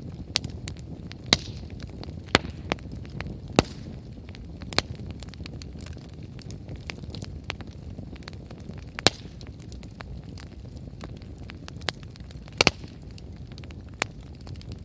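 Wood fire burning with a steady low rumble of flame and irregular sharp crackles and pops from the firewood, a handful of them loud.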